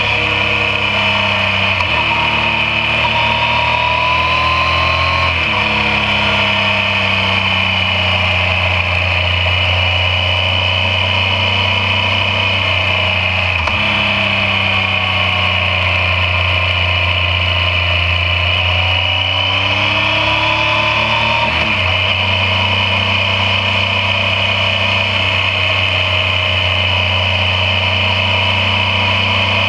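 Yamaha MT-09's three-cylinder engine running on the move, close to the microphone. Its pitch rises and then drops suddenly a few times as gears change, over steady wind and road noise.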